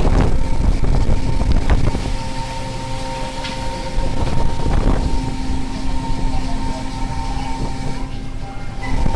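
Steady machinery drone from a fishing boat's engine, with wind and sea noise and a few sharp knocks. The hum dips briefly near the end.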